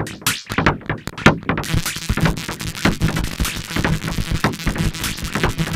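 Electronic music with no vocals: synthesizer over a drum-machine beat, the high end filling in about a second and a half in.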